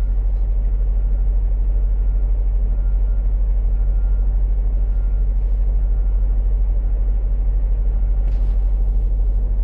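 Semi-truck diesel engine idling with a steady low rumble. A faint beep repeats every second or so, and a short hiss comes in near the end.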